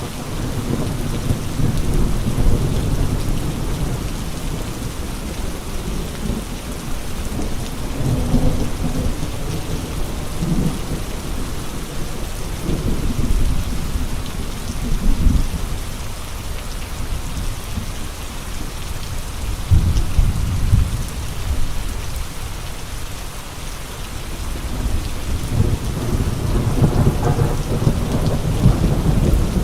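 Steady rain with gusting wind; the gusts come as low swells every five or six seconds over the even hiss of the rain.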